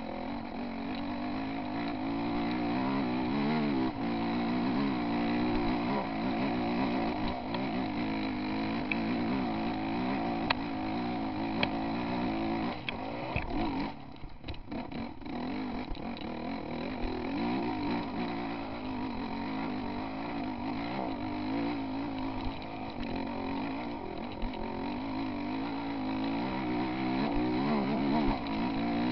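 Enduro dirt bike engine revving and pulling hard under load up a steep grassy hill, its pitch rising and falling with the throttle. About halfway through the engine drops off for a second or two, then revs up again.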